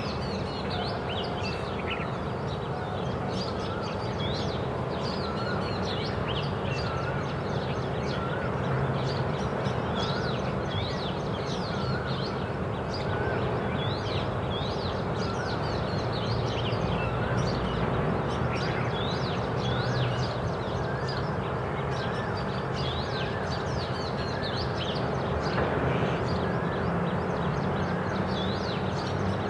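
Oriental magpie robin singing: a long run of short, varied whistled notes and chirps repeated every second or so, over a steady low background hum.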